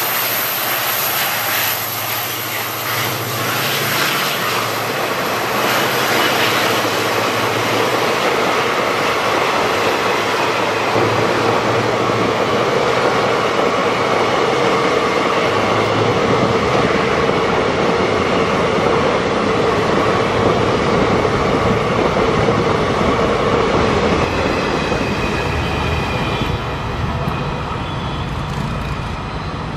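Rake of NMG goods wagons rolling past, a steady rumble of wheels on rails with a faint high ringing from the wheels, easing off slightly near the end.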